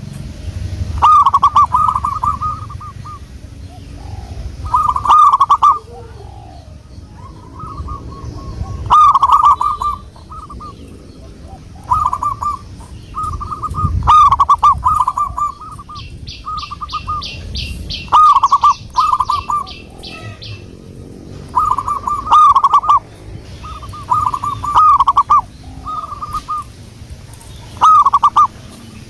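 Zebra dove (perkutut) cooing over and over: short phrases of quick, rolling notes, each about a second long, repeating every one to three seconds. A high, rapid trill joins for a few seconds in the middle, over a low rumble.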